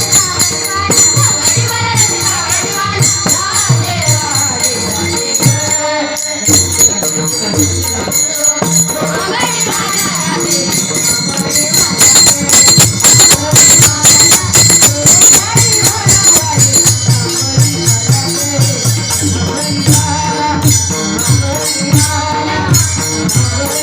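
Devotional bhajan music: a gaulan sung to a steady rhythm of drums and jingling hand percussion.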